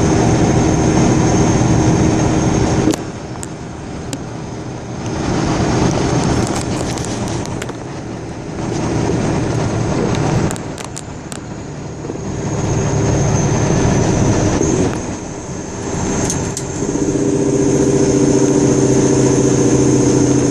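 Car driving along a road: engine and tyre noise that swells and dips, with an engine hum rising near the end and a few sharp knocks and rattles.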